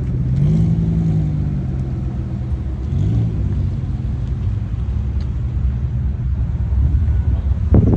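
Car engines running as parade cars drive past, a steady low rumble with the engine note rising and falling a couple of times. A brief loud burst comes just before the end.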